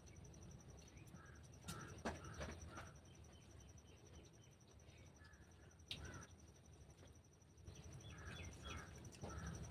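Faint eating sounds at a meal of rice and curry: a few soft clicks and taps, as of hands and food on plates, with small scattered chewing noises. A faint steady high tone runs under it all.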